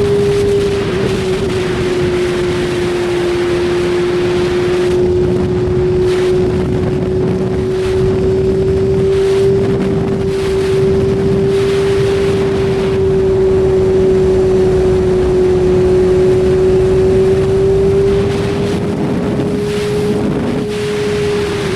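BMW S1000RR inline-four engine running at a steady high-pitched note while riding, the pitch sagging and rising only slightly, with heavy wind rush on the microphone.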